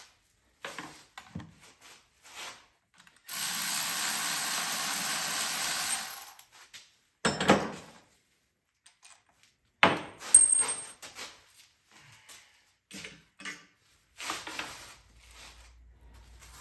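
A power tool runs steadily for about three seconds, followed by scattered clinks and knocks of metal tools and parts being handled.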